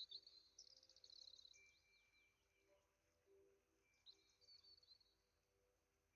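Faint birdsong from a small songbird: a rapid high trill at the start, a shorter trilled phrase about four seconds in, and a thin held whistle between them.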